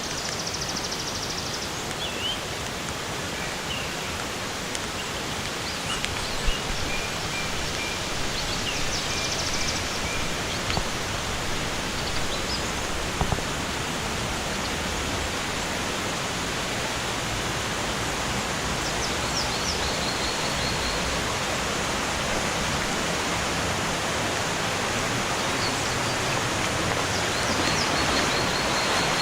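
Steady rushing of flowing water from a rainforest stream or waterfall. High, rapid chirping trills of birds come and go over it, and there are a couple of sharp clicks.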